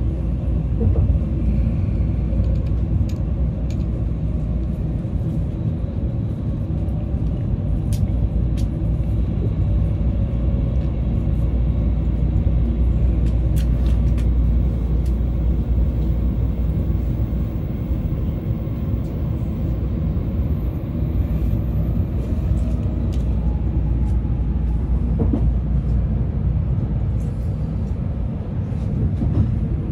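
Steady low rumble of a Shinkansen bullet train running, heard from inside the passenger car near the doors, with a few faint clicks over it.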